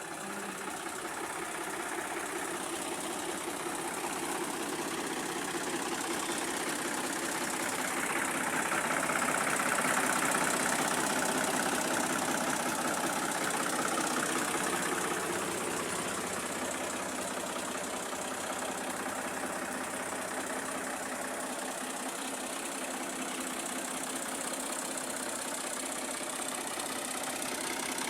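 2022 Al Ghazi tractor's diesel engine idling steadily, growing slightly louder around the middle.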